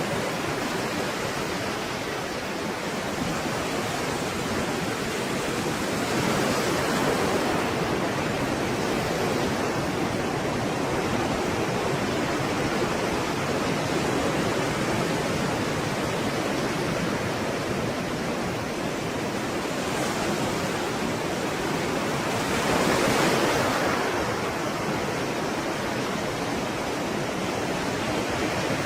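Stormy sea waves surging and breaking in a continuous dense rush of surf, swelling and easing every few seconds, with the strongest surge a little past the two-thirds mark.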